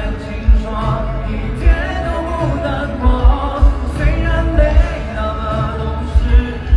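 Live pop music: a sung melody over a band, with strong kick-drum beats.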